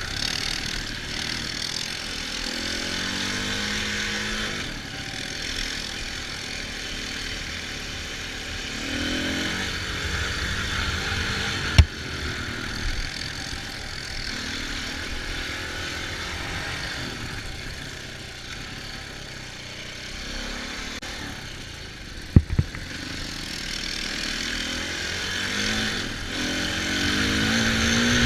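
Off-road vehicle engine running as it rides, revving up and easing off several times, with a steady rush of noise over it. There are sharp knocks about twelve seconds in and again about twenty-two seconds in.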